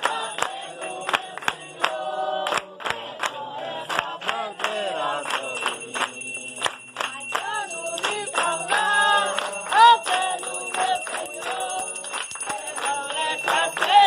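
Umbanda ceremonial singing by a group of voices over many sharp, irregular percussive strikes, with a loud call just before ten seconds in.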